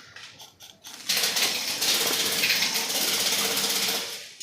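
Airsoft rifle firing a sustained full-auto burst of about three seconds: a fast mechanical rattle that starts about a second in and stops near the end.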